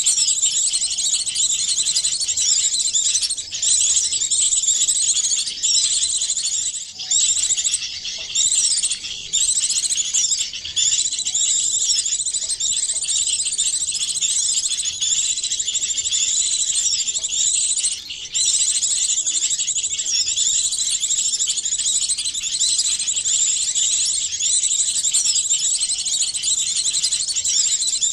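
Many small songbirds chirping and twittering at once, a mixed lure recording of small-bird calls, high-pitched and dense with quick rapid notes, running on with only a few brief dips.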